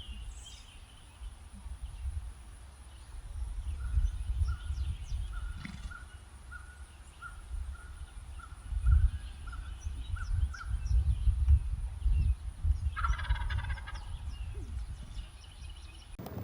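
A turkey calling: a run of short repeated notes through the middle, then a rattling gobble about thirteen seconds in. Heavy wind rumble on the microphone runs underneath throughout.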